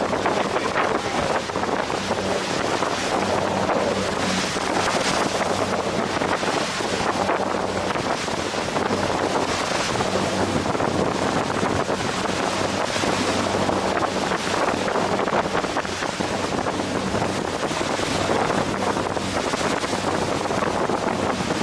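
Ferry's engine droning steadily, with wind buffeting the microphone and the rush of water against the hull.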